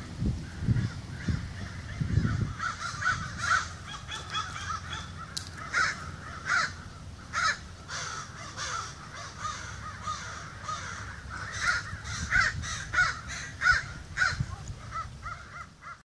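Birds calling over and over, several short calls a second, louder in spells around six seconds in and again near the end. A low rumble in the first couple of seconds.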